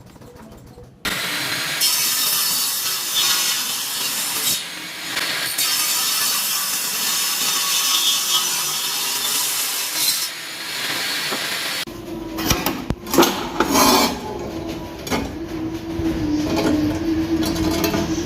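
Circular saw machine working: a steady, hissing cut or grind starts about a second in and runs for about ten seconds. From about twelve seconds in, a lower motor hum with scraping and several knocks takes over.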